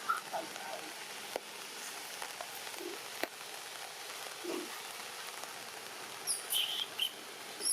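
Steady rain falling, an even hiss with a couple of faint clicks, and a few short high chirps near the end.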